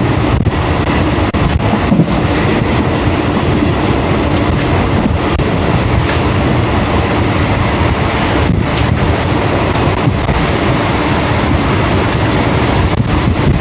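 A train running along the track: a steady, loud rumble with no break.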